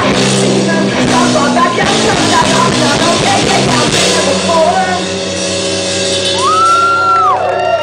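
Indie rock band playing live in a large hall, loud guitars and drums; about halfway through the playing thins to a held chord, and a whistle rises over it near the end.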